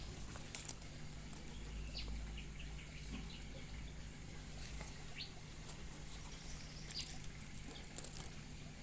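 Faint, scattered short chirps of small aviary birds, with occasional light clicks and rustles.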